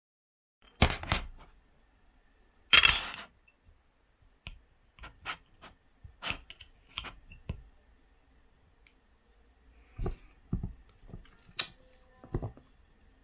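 A series of irregular clicks and knocks from small hard objects being handled, two louder ones about a second and three seconds in, then smaller scattered taps.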